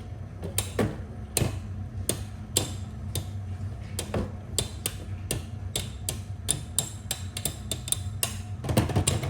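Two Beyblade X tops, Silver Wolf 1-60 Rush and Cobalt Dragoon, spinning in a plastic stadium and knocking together over and over: sharp plastic clicks at uneven spacing, a few a second, over a low steady hum. Cobalt Dragoon spins the opposite way to Wolf, and this repeated contact is the spin equalization that drains Wolf, which is low on spin.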